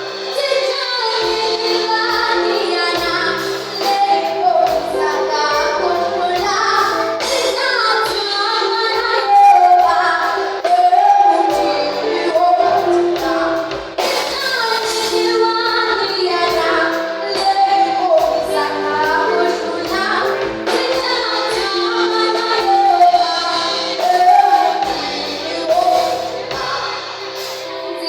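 Children and a woman singing a song over musical accompaniment, with a short dip about halfway through before the singing resumes.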